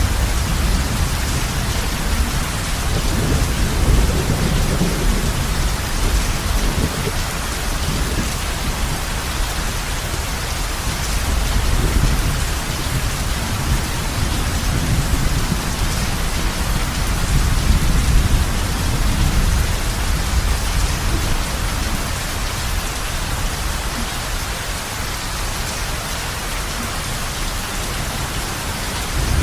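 Heavy rain falling steadily on a roof, an even hiss, with low rolling rumbles of thunder that swell and fade several times underneath.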